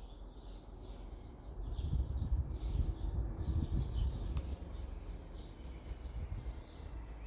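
Small birds chirping over and over in the background, with a low rumble that swells for a couple of seconds in the middle.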